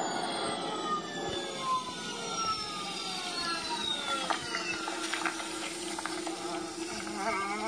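Several long whistling tones glide slowly downward together over about five seconds, over a steady hum and hiss. Wavering musical tones come in near the end.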